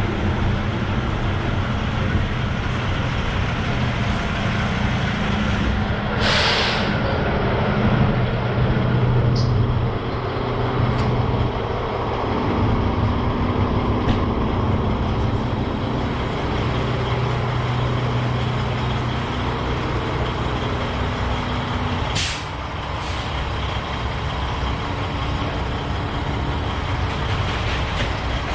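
Semi-truck diesel engine running as the rig moves slowly, its pitch shifting up and down with speed. Air brakes hiss twice, a longer release about six seconds in and a shorter one near the two-thirds mark.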